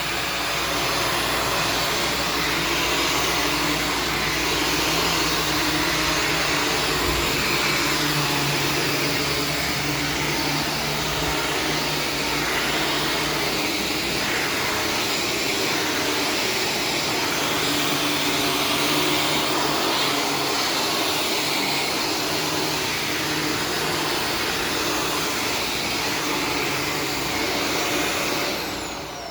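Shark Stratos upright vacuum running steadily with its motor and brush roll going on carpet. Near the end it is switched off and the motor winds down with a falling whine.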